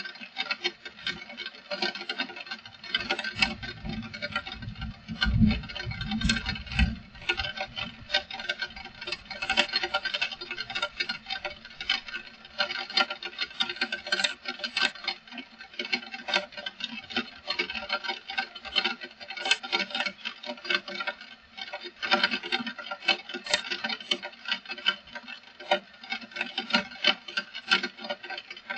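Heavy rain pattering as a dense, irregular stream of drops and drips. A low rumble comes in from about three to seven seconds in.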